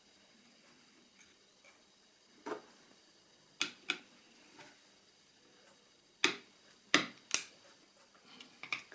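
Scattered sharp clicks and taps of a small hard-plastic radio case and hand tools being handled during disassembly: about six separate knocks, two close together near the middle and three louder ones in quick succession later on.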